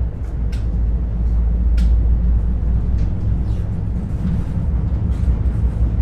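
Ivolga electric multiple-unit commuter train heard from inside the car while it runs: a steady low rumble with scattered short, sharp clicks.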